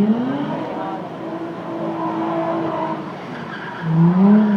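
Drift car engine revving hard: the pitch climbs at the start, holds steady at high revs through the middle, then climbs again and peaks loudest about four seconds in.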